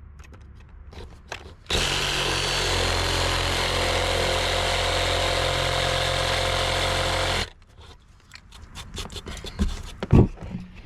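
Battery-powered reciprocating saw running at a steady speed for about six seconds as its blade cuts into wood in a plunge cut, then cutting off suddenly. A few light knocks follow.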